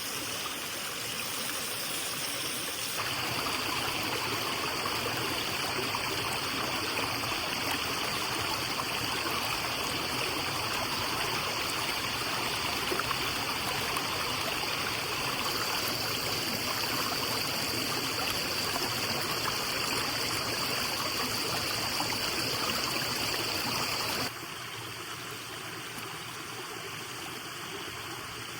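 Steady rushing of a forest stream, growing louder about three seconds in and dropping back suddenly near the end.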